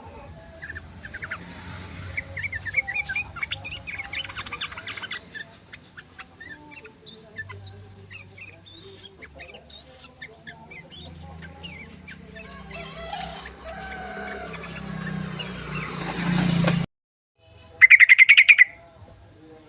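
Yellow-vented bulbul (trucukan) calls: a busy run of chirps and quick sweeping notes that cuts off suddenly about three-quarters of the way through. About a second later comes a short, very loud burst of rapid harsh chattering.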